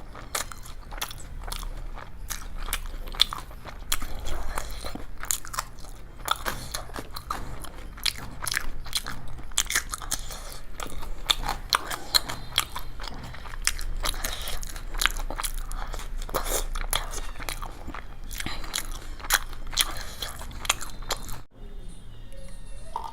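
Close-miked crunching, biting and chewing of crisp fried Indian snack food, a dense run of sharp crackles and clicks that breaks off abruptly near the end.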